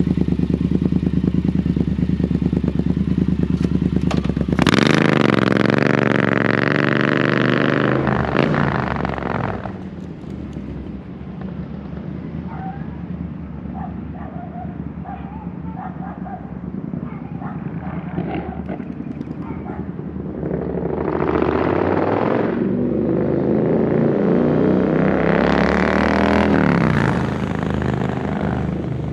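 Triumph Bobber's 1200 cc parallel-twin engine running through a Zard exhaust with the baffles out. It idles, is revved about five seconds in and held for about three seconds, then settles back to idle. Near the end it gets a short blip and then a longer rev before dropping back.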